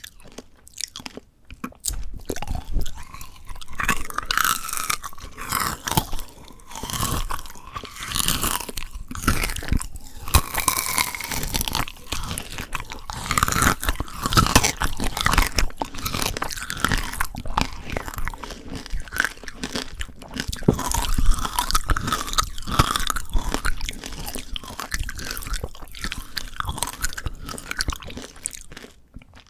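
Close-miked crunching and chewing of frozen Shine Muscat grape tanghulu, the hard candy shell cracking between the teeth. The crunching starts about two seconds in and keeps going in irregular bites.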